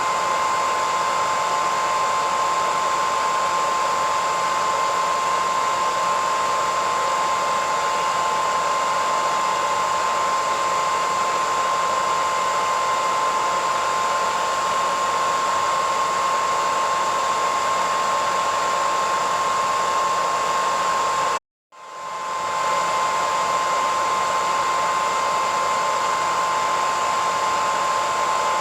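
Hairdryer running steadily: rushing air with a high motor whine held at one pitch. About three-quarters of the way through it cuts out for a split second and swells back in.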